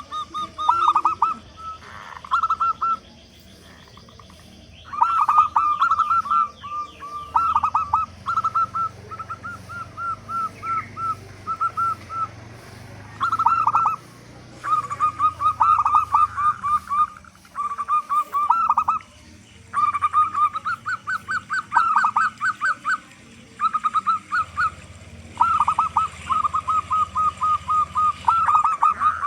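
Zebra dove (perkutut) cooing: phrases of rapid, short staccato notes, each a second or a few seconds long, repeated again and again with brief pauses between.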